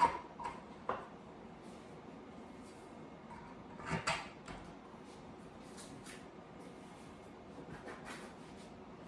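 Wooden parts of an IKEA Sundvik chair knocking and clattering as they are handled and fitted together: a sharp knock at the start, another about a second in, a louder clatter about four seconds in, and lighter taps after.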